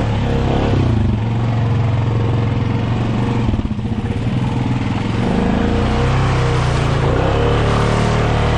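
ATV engine running under throttle, easing off briefly about four seconds in, then holding steady revs again.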